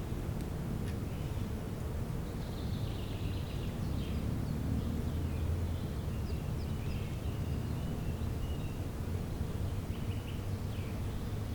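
Songbirds chirping and trilling in spring woodland, short calls coming every second or so, over a steady low rumble.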